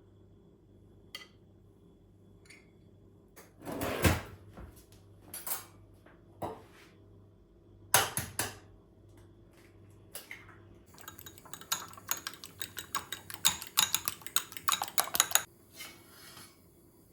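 Dishes and cutlery being handled: scattered clinks and clatters, the loudest about four and eight seconds in, then a quick run of clinking from about eleven seconds in that stops near the end.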